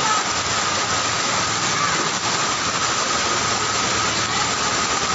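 Heavy tropical rain falling in a steady, even hiss, with a vehicle engine running faintly beneath it.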